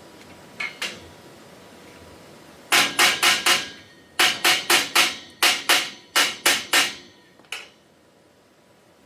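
A hammer striking metal: two light taps, then about a dozen sharp, ringing blows in quick runs of two to four, and a last lighter tap near the end.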